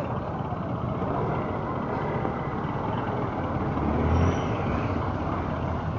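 Motorcycle and road traffic noise in a slow-moving jam, with a heavier low rumble swelling about four seconds in.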